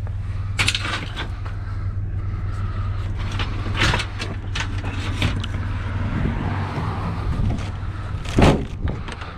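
A vehicle running with a steady low drone of engine and road noise, broken by several sharp knocks or rattles; the loudest comes near the end.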